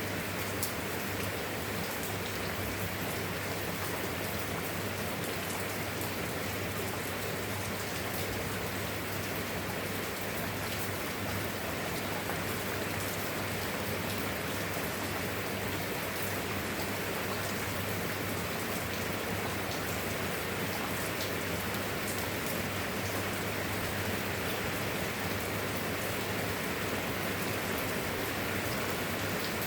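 Steady rain falling on a surface, an even hiss with fine drop ticks scattered through it, over a steady low hum.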